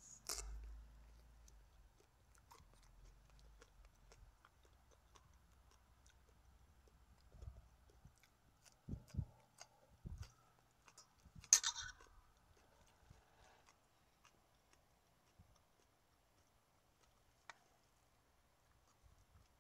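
Faint close-up chewing and crunching of a lettuce wrap, broken by a few sharp clicks and low thumps; the loudest is a crackling click just past the middle.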